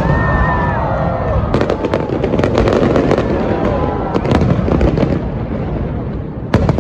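A large fireworks display: many shells bursting in quick succession over a continuous rumble of explosions, with sharp bangs clustered about a second and a half in and again near the end.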